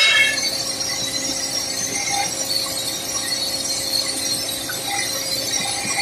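Simba S7D long-hole drill rig drilling with T-38 extension rods: a steady, loud metallic noise with a constant hum underneath.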